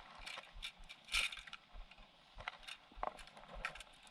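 Irregular small clicks and rattles of fishing tackle being handled, with one louder rattle about a second in.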